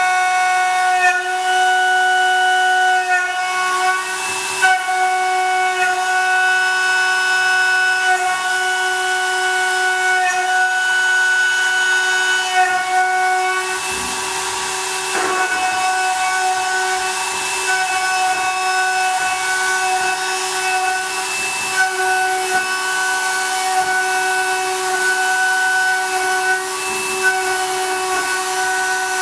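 CNC milling machine's spindle and end mill cutting aluminium: a steady high-pitched whine with several overtones, its tones stepping slightly every second or two, with a brief rougher, noisier patch about halfway through.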